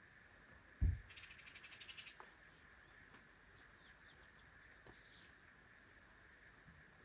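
Faint wild birdsong: a rapid trill lasting about a second, then a few thin high chirps sliding downward. A single dull thump comes just before the trill, about a second in.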